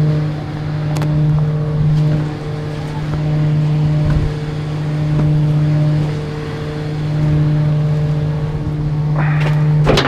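Garbage truck running with a steady hum that swells and eases slowly. About nine seconds in, a louder rush of noise begins.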